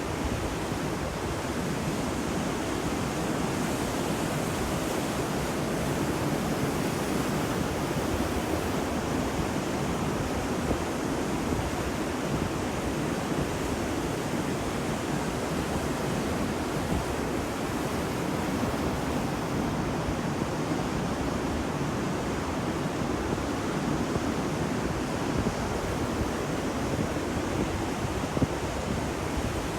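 Ocean waves breaking on a beach, a steady surf noise with no distinct single crashes.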